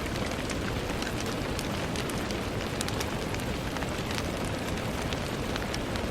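Steady rain with many individual drops ticking sharply against a window pane over a soft, even wash of rainfall.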